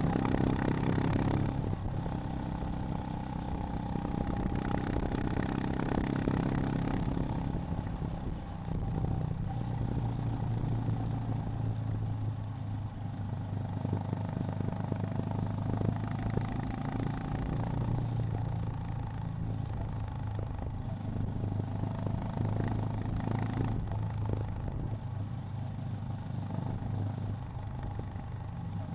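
Honda GB350's air-cooled single-cylinder engine running at low revs, louder in the first couple of seconds, then settling into a steady low idle from about eight seconds in.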